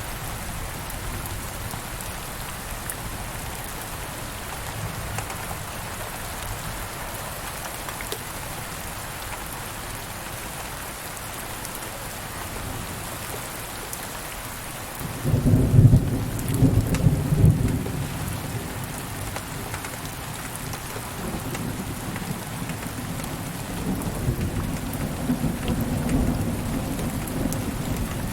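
Steady rain falling, with a sudden loud rumble of thunder about halfway through that lasts a few seconds, then a second, softer rumble of thunder that rolls on to the end.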